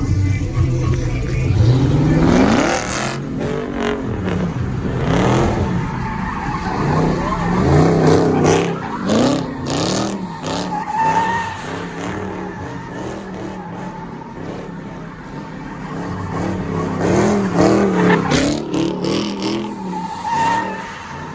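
A car engine revving up and falling back again and again, with tyres squealing as the car slides.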